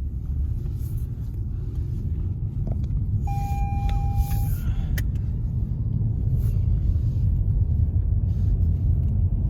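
Low, steady rumble of a car on the road, heard from inside, growing slightly louder; a short single-pitched beep sounds a little over three seconds in.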